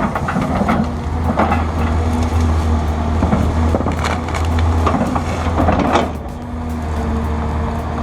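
Excavator diesel engine running steadily under the hydraulic strain of pulling out a tree stump, with roots and wood cracking and splintering in sharp bursts every second or two. The cracking stops about six seconds in.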